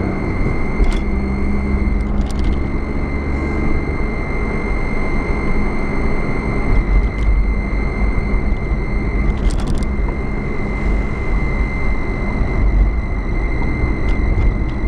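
Car driving along a road: steady road and engine rumble, with a thin steady high whine and a few faint clicks.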